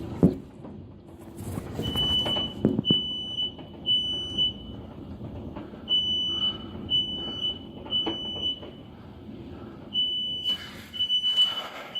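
High-pitched electronic alarm beeping steadily in groups of three, about one beep a second with a short pause between groups. A few sharp knocks and clatters sound among the beeps.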